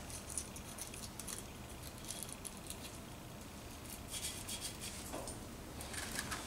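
Short scratchy strokes of 320-grit sandpaper worked between a Motobecane moped's corroded ignition contact points by hand, in about four brief bursts of faint scraping and small clicks.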